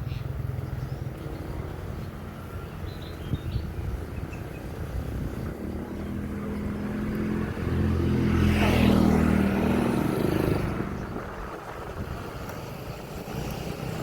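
Steady low rumble of riding a mountain bike, with a motor vehicle's engine growing louder and passing close by in the middle, loudest about nine seconds in, then fading away.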